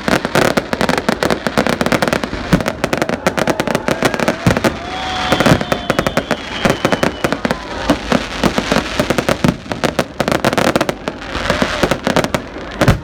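Fireworks display: rapid, near-continuous crackling and popping of bursting shells, with a few whistling tones partway through.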